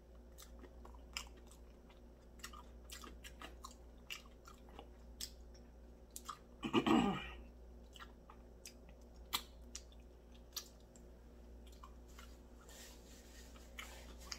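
A person chewing a sauced chicken drumstick close to the microphone, with many small wet mouth clicks and smacks and finger-licking. About seven seconds in there is a brief louder vocal sound.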